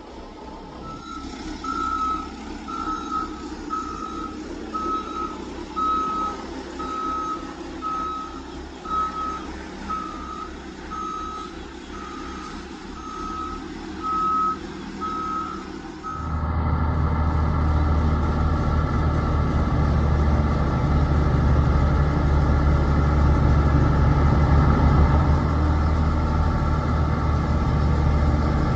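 RC model heavy equipment's reversing beeper sounding steadily, about one and a half beeps a second, over a low engine hum. About 16 seconds in the beeping stops and a louder, steady engine sound takes over.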